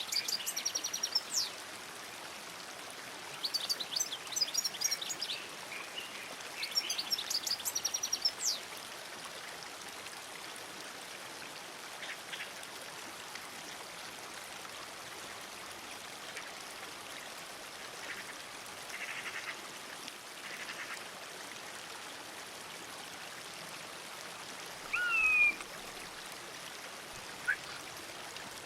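A songbird singing three bursts of rapid, high chirping phrases in the first eight seconds. Then only a few scattered calls, including a clear, slurred whistle about 25 seconds in, over a steady hiss of background noise.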